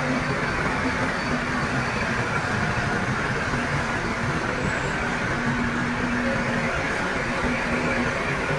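Heavy diesel earthmoving machinery running steadily, a continuous engine noise with faint steady tones.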